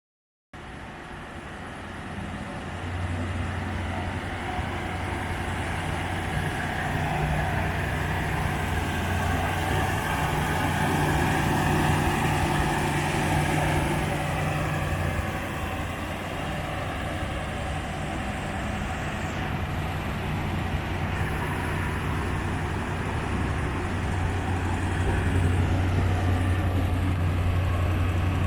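1955 Ford Thunderbird's 292 Y-block V8 idling steadily, getting louder over the first few seconds.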